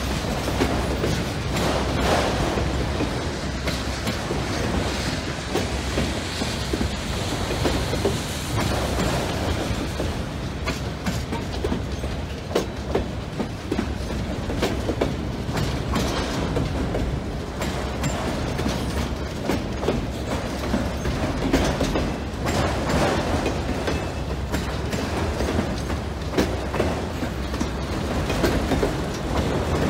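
Freight train of autorack cars rolling past at close range: a steady rumble of steel wheels on the rails, with many sharp clicks and knocks as the wheels pass over the track.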